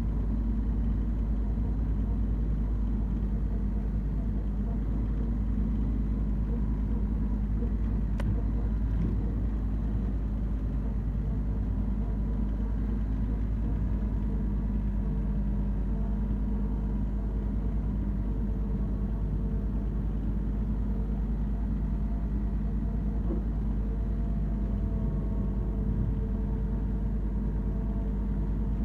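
Branson 3520R compact tractor's diesel engine running steadily at a constant speed.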